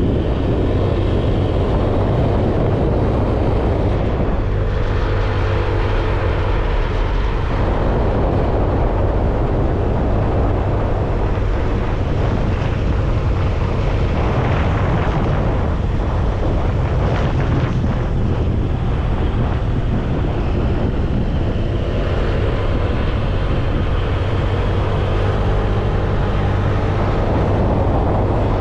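Motorcycle engine running steadily while riding, with wind rushing over the microphone. The engine note shifts a little a few times.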